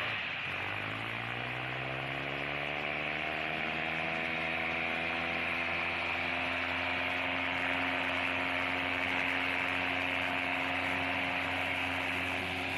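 Tractor diesel engine revving up over the first couple of seconds, then holding a steady high speed while labouring under load in a tractor tug-of-war pull.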